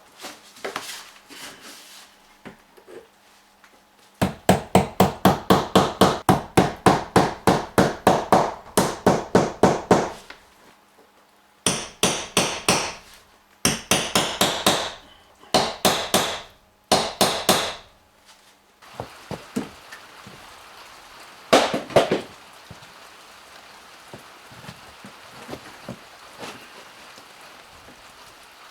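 Hammer blows: a fast run of about four strikes a second for six seconds, then several shorter runs of strikes and one last single knock.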